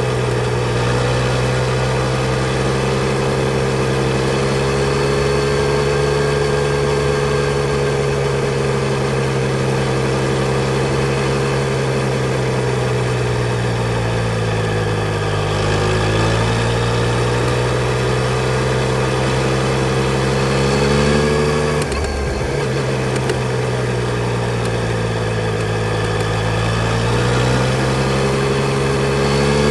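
Yamaha Tracer 900 GT's inline three-cylinder engine running steadily. Its pitch falls and rises again a few times with the throttle, and there is a quick break about two-thirds through, like a gear change.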